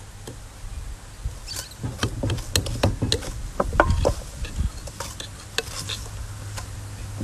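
Metal spoon knocking and scraping in a mixing bowl in quick, irregular clicks while hard butter and sugar are creamed by hand, over a low rumble of wind on the microphone.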